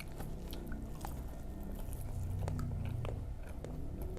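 Close-up mouth sounds of someone chewing fried snacks, wet chewing with scattered small crunches and clicks, and a low hum around the middle.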